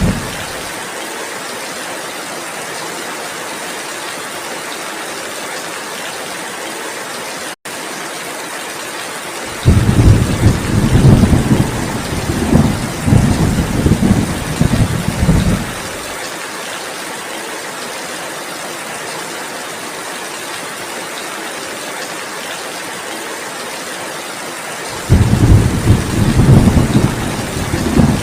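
Heavy rain falling steadily, with rolls of low thunder rumbling for about six seconds starting some ten seconds in, and again near the end. The sound drops out for a split second about eight seconds in.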